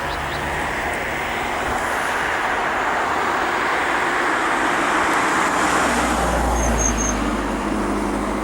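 A train running past: a steady rushing rumble that grows a little toward the middle. A deep low rumble comes in about six seconds in, with three short high squeaks just after.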